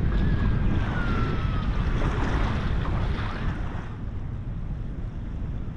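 Wind buffeting the microphone over the wash of surf on a beach. The surf hiss eases about four seconds in, while the low wind rumble goes on.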